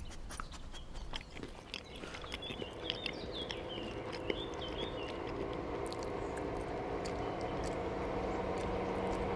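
A dog chewing and smacking wetly, many short clicks, as it eats dog dirt. Chirps sound during the first half, and a steady hum of several tones grows louder from about halfway.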